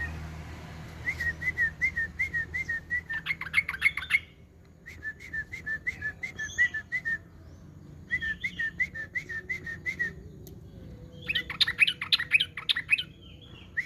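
A songbird singing in four bouts of short, quickly repeated whistled notes, a few per second. The first and last bouts end in a louder, rapid jumbled run.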